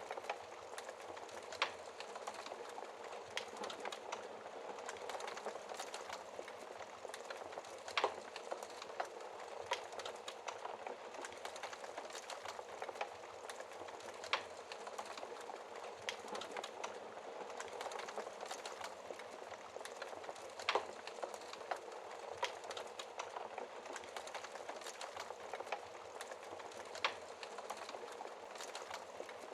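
Wood fire crackling in a fireplace: a steady hiss with irregular sharp snaps and a few louder pops, the loudest about eight seconds in and again around twenty-one and twenty-seven seconds.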